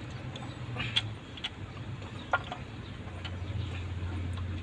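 A few sharp, separate metallic clicks and taps from a pry bar and hand tools working a fuel injector out of a Caterpillar C6.4 diesel engine head, over a steady low hum.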